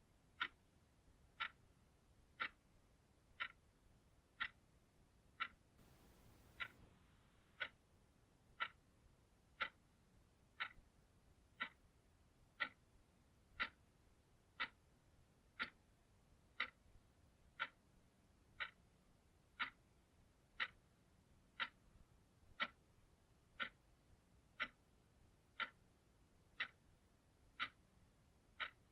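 Analog clock ticking steadily, one crisp tick a second.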